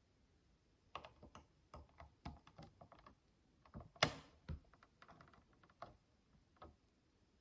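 Micro building bricks (tiny plastic blocks) clicking and rattling as they are handled: a quick run of light clicks, with one sharper click about four seconds in.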